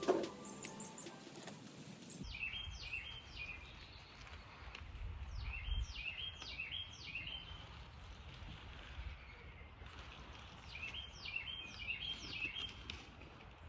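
A songbird singing three short phrases, each a few downward-slurred high notes running into a quick jumble of lower notes, over a low rumble of outdoor wind noise. Music cuts off about two seconds in.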